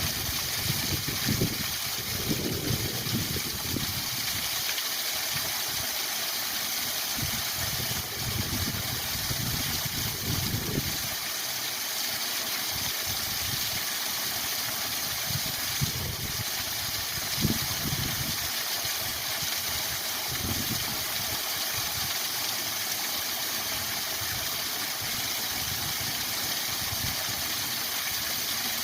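Waterfall rushing steadily, with irregular low-pitched surges of water.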